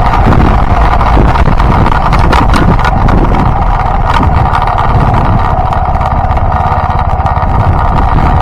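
Yamaha Byson single-cylinder motorcycle engine running steadily while riding, mixed with wind rushing over the microphone.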